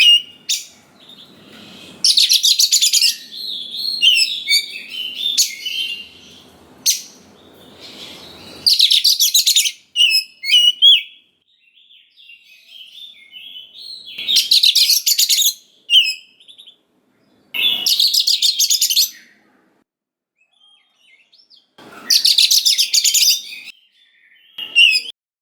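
Oriental magpie-robin singing: varied high whistled phrases broken by about five loud bursts of rapid, harsh chattering notes, each lasting a second or two.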